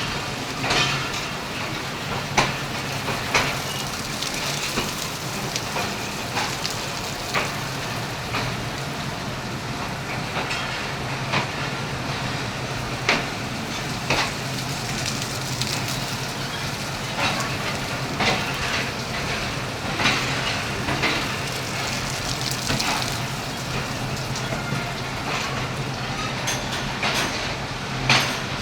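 Passenger train rolling slowly into a station, with irregular clacks and knocks from the cars roughly every second or two. Under it run a steady hiss of rain and a low hum.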